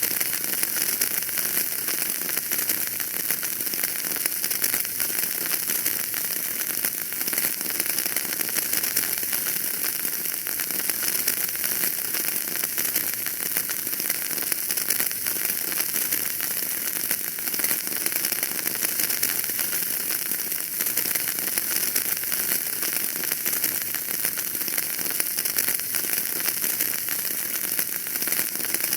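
Wood fire burning in a fireplace, a steady dense crackling with many small pops and a hiss.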